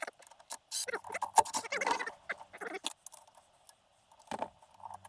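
Irregular clicks and clinks of hand tools and small metal parts being handled during an engine teardown, with a faint low hum for a couple of seconds in the middle.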